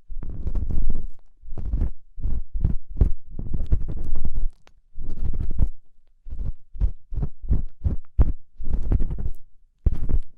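Ear pick scraping and rubbing in an ear right at the microphone, in a quick, irregular run of strokes broken by brief pauses.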